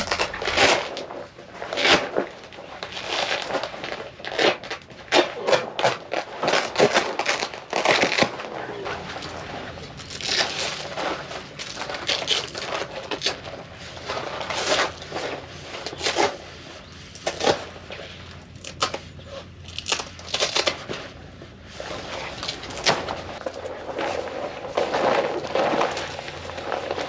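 Irregular rustling, crinkling and knocking, as of things being handled, in quick uneven bursts.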